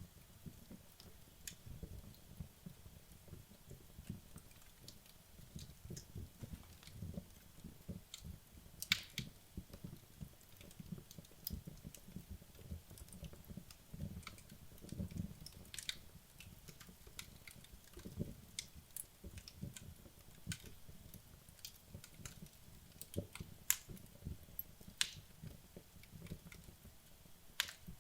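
Wood logs burning in a fireplace: irregular sharp crackles and pops over a low, soft rumble of the flames.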